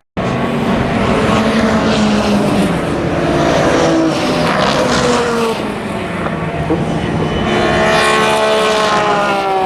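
Race car engines at high revs as several cars pass through a corner, their engine notes overlapping and shifting in pitch as they brake, shift and accelerate. A very short break to silence at the very start.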